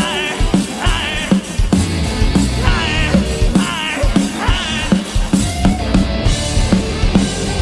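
Live rock band playing: a drum kit keeps a steady beat under bass and guitars, with short wavering melodic phrases carried over the top.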